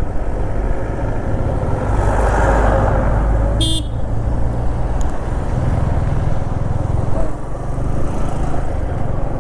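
Motorcycle riding along with a steady low rumble of engine and road noise, and one short vehicle horn toot about three and a half seconds in.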